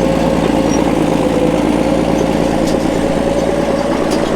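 Heavy diesel engine running steadily, a constant low rumble with an even drone.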